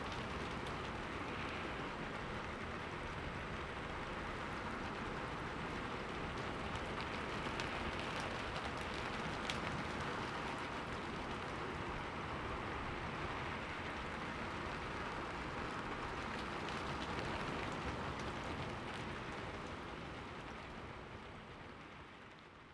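Steady rain pattering on a window, with scattered individual drop ticks; it fades out over the last few seconds.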